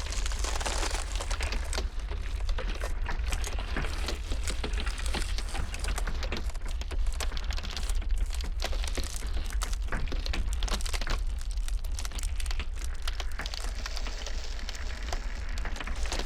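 Ice crackling and cracking in many small, irregular sharp snaps over a steady low rumble of blizzard wind.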